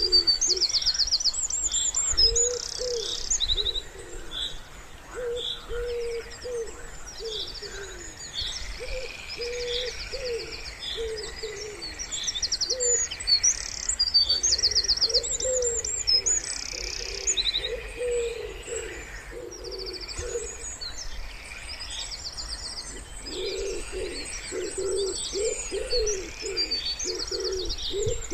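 Wood pigeon cooing in repeated low phrases, in several bouts with short pauses between them. Over it, small songbirds sing high, fast trills and chirps throughout.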